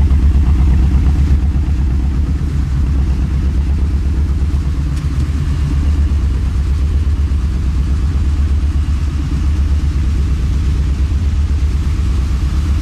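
Steady low engine rumble, as heard from inside a moving vehicle.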